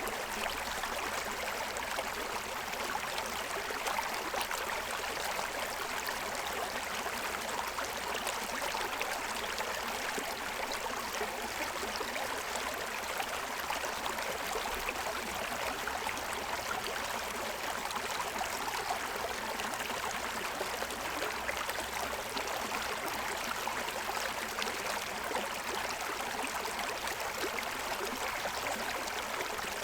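Forest stream running steadily over the stones of its bed, an even rush of flowing water.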